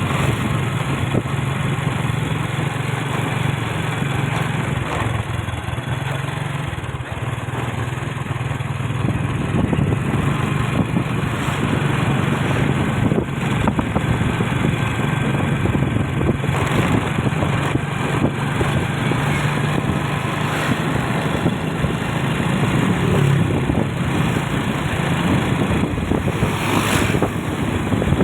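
Motor vehicle travelling along a road at a steady speed: a steady engine hum under wind and road noise, getting a little louder about a third of the way in.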